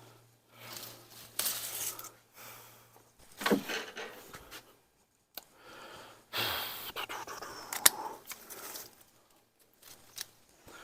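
Irregular rustling and scraping of potted plants and soil being handled, with a few sharp clicks and a faint low hum in the background.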